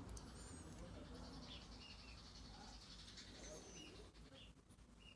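Near silence over a low steady hum, with faint bird chirps and short thin whistles scattered through it.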